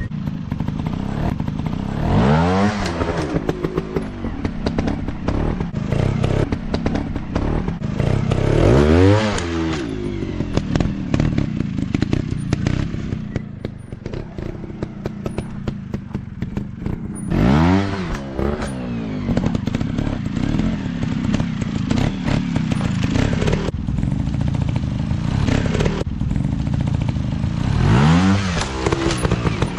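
Dirt bike engine running, its throttle blipped hard four times: the pitch shoots up and falls back each time. Between the blips it keeps running with a rattly, crackling note.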